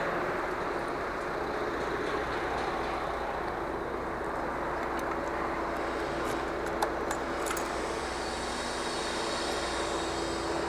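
Suzuki V-Strom 250 motorcycle's parallel-twin engine running steadily on the move, with a steady hum under a wash of road and wind noise. A few sharp ticks come past the middle.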